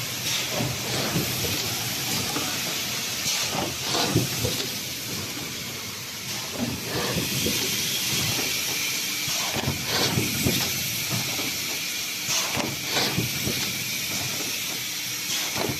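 Plastic-sheet thermoforming machine running. Air hisses steadily, and short knocking strokes from the forming, punching and cutting stations come in clusters about every three seconds, one machine cycle at 20 cycles a minute.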